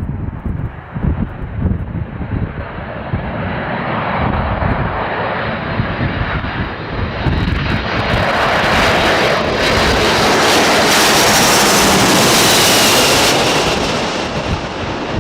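Jet airliner's engines growing louder as it passes close on its landing approach, with a high whine that slides down in pitch as the sound fades near the end. Wind buffets the microphone throughout.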